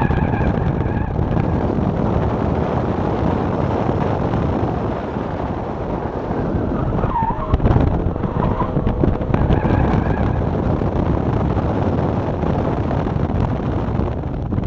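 Dodge Challenger R/T Scat Pack's 392 HEMI V8 running hard under load, heard from inside the cabin. Its note eases off for a moment around the middle and then pulls again. Tyres squeal briefly as the car turns, around halfway through and again about a second later.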